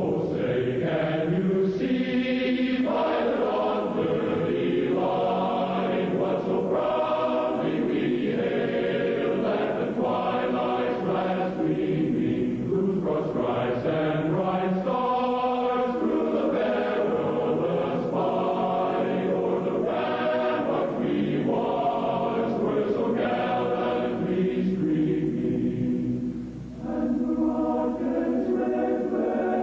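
A choir singing slowly, holding long sustained chords that change every second or two, with a brief pause in the singing near the end.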